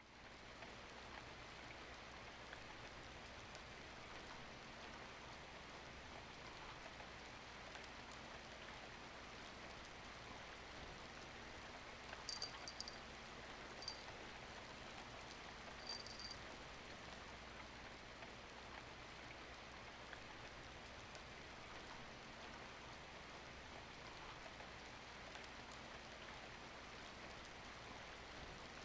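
Steady, faint hiss of falling rain. A few short, high chirps come through it about twelve to sixteen seconds in.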